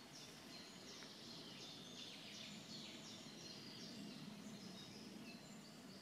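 Faint woodland ambience: small birds calling and singing in the background in many short, high, quick notes, over a low steady hum.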